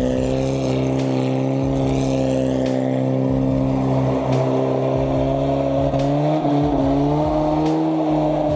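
A vehicle engine running hard at high revs, its pitch held steady and then rising a little about three-quarters of the way through.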